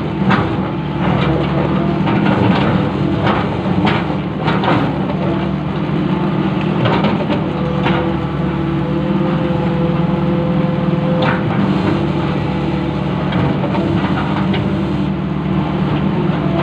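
Long-arm excavator's diesel engine running steadily under load, with a thin whine coming and going and irregular sharp clanks and knocks throughout.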